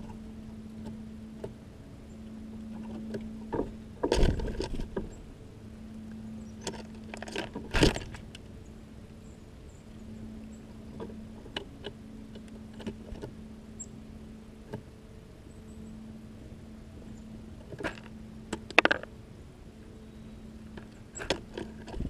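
Small songbirds coming and going at a seed-strewn box feeder: a few sharp knocks and short flurries of wingbeats and clattering seed, over a low steady hum.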